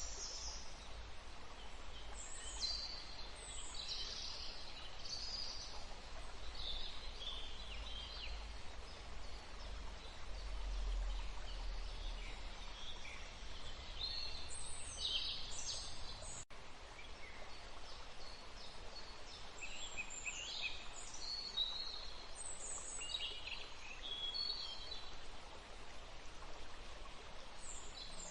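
Several wild birds singing and calling, a steady stream of short high chirps and trills overlapping one another, over a faint low rumble that stops about halfway through.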